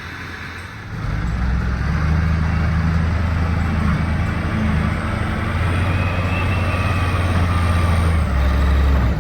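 A large vehicle engine running steadily with a deep rumble, coming in loud about a second in.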